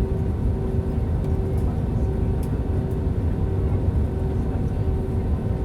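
Steady cabin noise of an Airbus A320 in flight: a deep rumble of airflow and the twin IAE V2527 turbofans, with a few faint steady tones above it, one of them dropping in and out.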